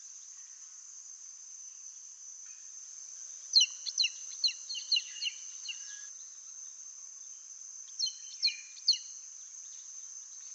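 Steady high-pitched insect drone, with a bird calling in short, down-slurred whistled notes: a quick run of six or seven about a third of the way in, then three more near the end.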